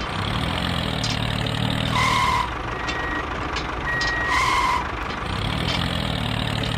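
A miniature model construction vehicle running with a steady engine-like hum, with two electronic reversing beeps about two and a half seconds apart.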